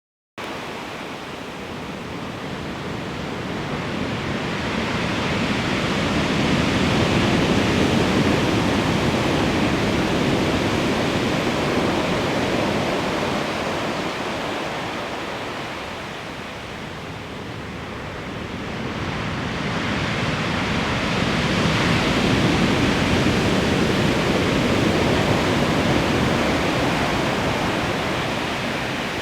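Heavy typhoon surf: a continuous roar of big breaking waves that swells up, eases off about halfway through, then swells again.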